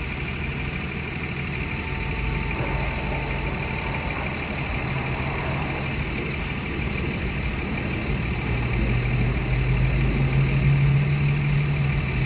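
Vehicle engines idling in stopped traffic: a steady low drone that grows louder about eight seconds in.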